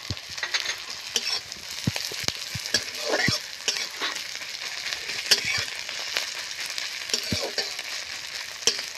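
Onions, garlic and chillies sizzling in hot oil in a large metal kadai, with a steady hiss. A flat metal spatula scrapes and knocks against the pan many times as the mixture is stirred.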